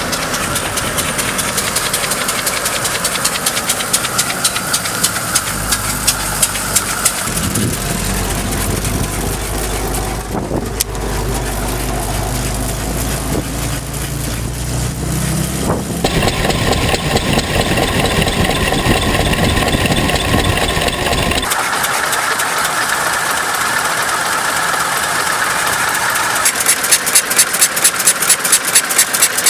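1905 Buick's two-cylinder engine running with an even, pulsing firing beat. Near the end it is heard up close at about four to five beats a second.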